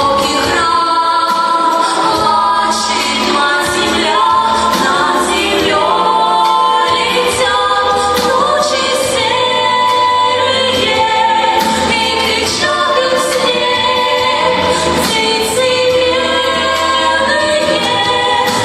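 Choir singing a song, sustained sung notes changing pitch every second or so.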